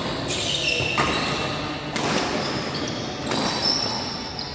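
Badminton rally in a large hall: sharp racket hits on the shuttlecock about once a second, with sneakers squeaking on the court floor.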